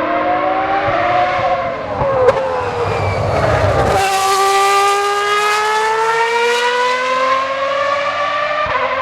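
Ferrari 412 T1B Formula 1 car's 3.5-litre V12 engine accelerating at high revs, its pitch climbing steadily. A sharp crack sounds a little over two seconds in; about four seconds in the pitch drops suddenly at an upshift and climbs again, with another shift near the end.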